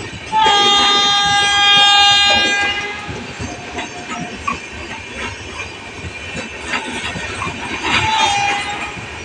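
Passenger coaches rolling past, their wheels clattering over the rail joints, while a locomotive horn sounds one long blast of a little over two seconds about half a second in and a short second blast near the end.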